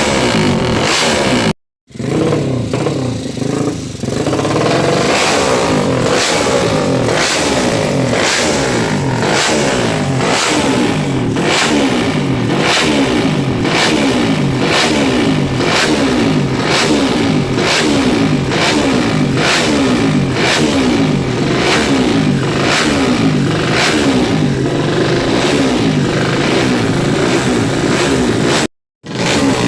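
200cc motorcycle engine with a Fanterra aftermarket exhaust and a KRJ carburettor, revved again and again, its pitch climbing and falling back with each throttle blip. Two brief dropouts break the sound, one about two seconds in and one near the end.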